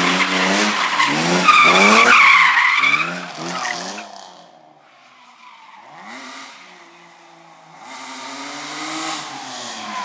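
Competition car's engine revving hard on a slalom course, its pitch rising and falling quickly as the driver lifts and accelerates between gates, with tyres squealing. The car fades away about four seconds in, and another engine note builds near the end.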